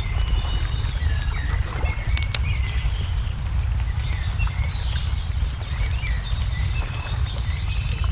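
Small songbirds chirping and trilling over a wood fire crackling with sharp pops, all on a steady low rumble.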